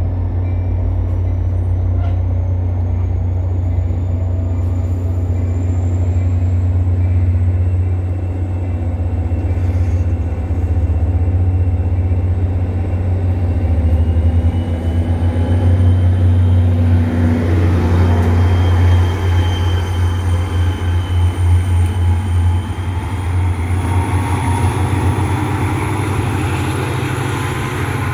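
Train running on the line: a steady low rumble with a thin whine slowly rising in pitch. Wind buffets the microphone and throbs unevenly, heaviest in the middle of the stretch.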